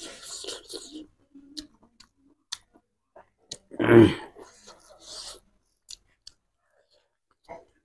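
A person chewing food by mouth, close to a lapel microphone, with small wet clicks and smacks. About four seconds in there is one short, louder mouth sound.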